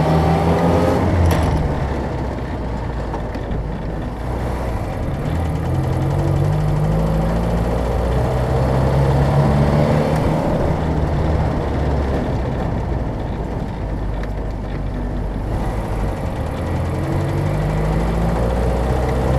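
1968 Land Rover Series IIA's engine and drivetrain while driving, the engine note rising and falling in stretches as the revs change, over a steady rushing noise.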